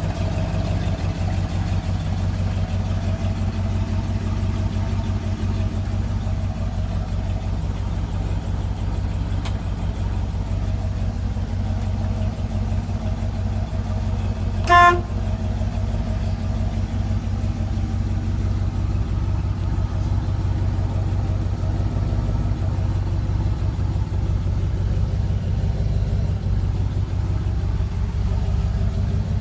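1969 Chevrolet C30 pickup's engine running steadily. A single short toot of the truck's horn about halfway through.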